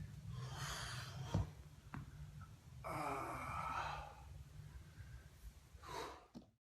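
A person breathing hard under exertion during an ab exercise: three heavy, sighing exhales, about half a second in, around three seconds in and near the end, over a low steady hum.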